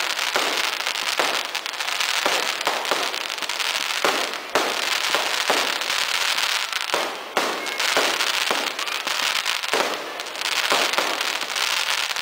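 Fireworks going off in a dense, continuous crackle of rapid pops with no break.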